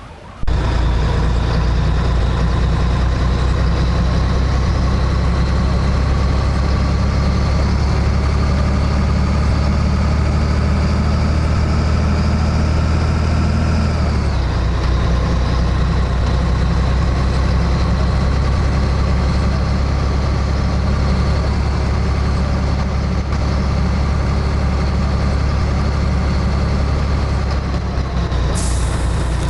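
Scania 113H truck's straight-six diesel running under load, its revs climbing slowly, dropping sharply at a gear change about halfway through, then climbing again. A hiss comes in near the end.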